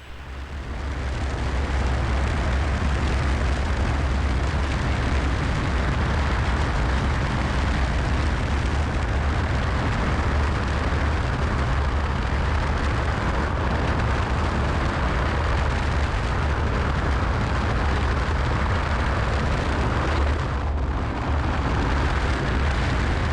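Cessna 172SP cabin noise: its four-cylinder Lycoming engine and the airflow make a loud, steady rumble with a hiss over it. The noise builds up over the first second or so, then holds even.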